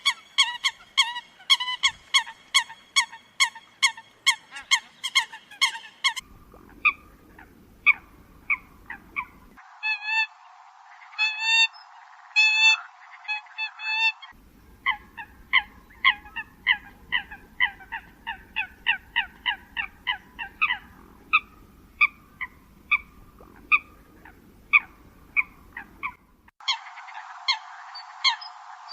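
Eurasian coot calls: short, nasal, honking notes repeated about two a second, some rising in pitch. The background changes abruptly several times where separate call recordings have been spliced together.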